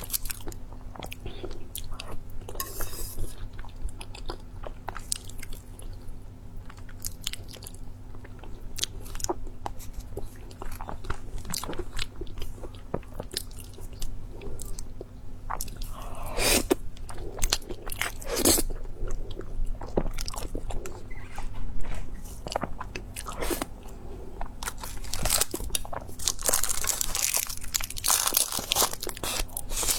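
Close-miked eating: a person biting, crunching and chewing food, with many short sharp clicks and denser bursts of crunching, loudest a little past halfway and near the end, over a low steady hum.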